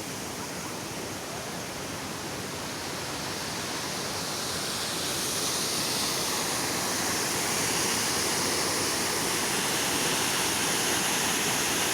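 Steady rushing noise with no distinct events, slowly growing louder, with more hiss in the upper range from about halfway through.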